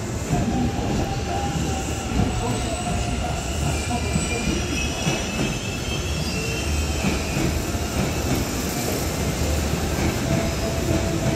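Hanshin Railway local train pulling into the station along the platform. Its wheels rumble steadily on the rails, with short high squeals now and then, most around the middle.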